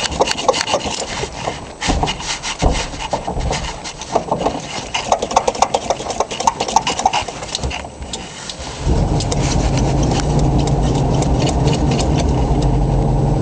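1973 Volkswagen bus's air-cooled flat-four engine cranking on the starter for about nine seconds in the cold, then catching and settling into a steady run: a cold start.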